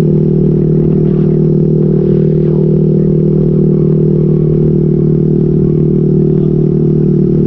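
Motorcycle with an SC Project aftermarket exhaust and modified elbow pipe, running at a steady engine speed while riding: an even, constant exhaust drone with no revving.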